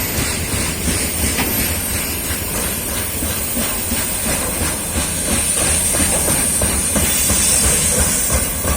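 Train running past at close range, its wheels clicking over the rail joints over a steady rumble, with a constant high hiss.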